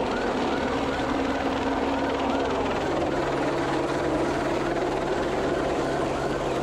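Steady helicopter engine and rotor noise, with a police siren faintly yelping about three times a second behind it.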